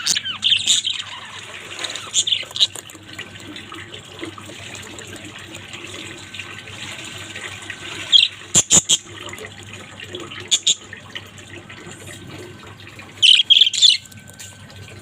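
Budgerigars chattering and warbling continuously, with loud sharp chirps breaking through now and then, the loudest cluster about eight to nine seconds in and another near the end.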